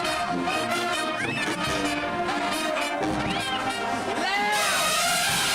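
Marching band brass section playing loudly, with a few rising-and-falling pitch slides. About four and a half seconds in, a steady rushing noise comes in over the music.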